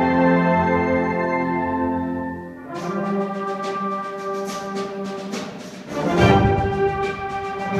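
Concert wind band with prominent brass playing: held chords fade out about two and a half seconds in, a quieter passage of rapid repeated strokes follows, and the full band comes back in loudly with heavy bass near the end.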